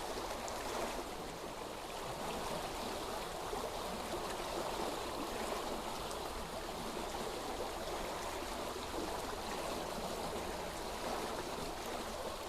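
Steady running water, a stream flowing evenly without a break.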